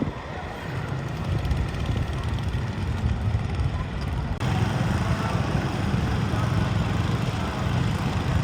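Competition garden tractor's engine running steadily, getting louder from about four and a half seconds in.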